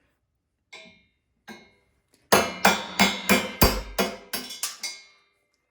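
Hammer striking a steel punch to drive a broken shear pin out of a snowblower's auger shaft: two light taps, then a quick run of about nine hard, ringing metal blows, roughly three a second.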